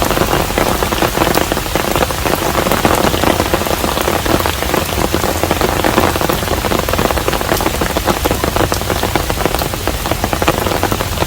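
Steady rain falling on a traditional Korean hanok: a dense, even hiss with many separate drops ticking through it.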